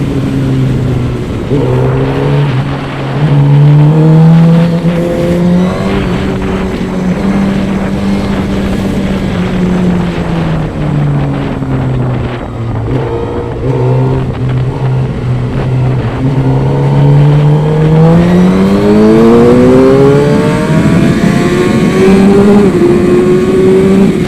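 Suzuki GSX-R's inline-four engine running through an Akrapovic full exhaust while riding, its pitch rising and falling gently with engine speed. About three-quarters of the way through it climbs steadily under acceleration, with a brief step near the end.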